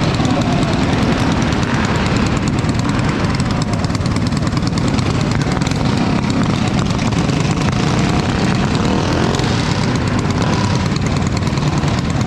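Small mini bike engines running steadily with a continuous, fast-firing drone.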